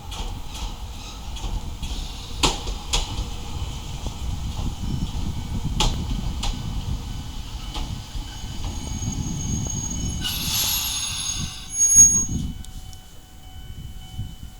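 Chichibu Railway 7700-series electric train pulling into a station: a steady rumble of wheels on track with sharp clicks over rail joints, then a high brake squeal and hiss about ten seconds in and a sudden loud burst about twelve seconds in as it stops, after which it goes quieter.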